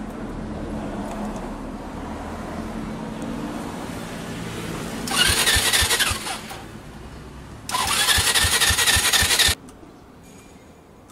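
Honda Fusion MF02 250 cc single-cylinder scooter's electric starter cranking the engine twice, about a second and then about two seconds, each time stopping suddenly without the engine catching: a no-start. Before the cranking, a steady low hum.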